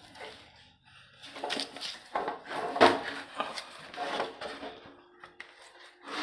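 Irregular clatter, clicks and knocks of a home inverter being disconnected and removed by hand, with the loudest knock about three seconds in.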